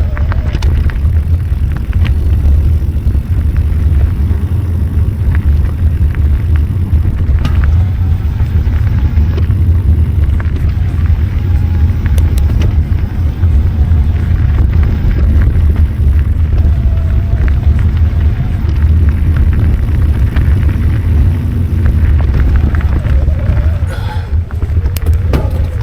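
Loud, steady wind rumble buffeting the microphone of a camera worn while riding a bike along a trail, with the small clicks and rattles of the bike over the ground.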